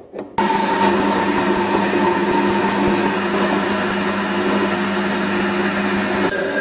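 Electric power tool motor starting abruptly and running steadily with a constant hum and whine, its tone shifting slightly near the end.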